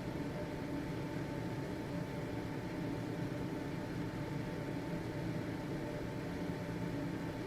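Household ventilation fan running steadily: an even whooshing hum with a faint steady motor whine.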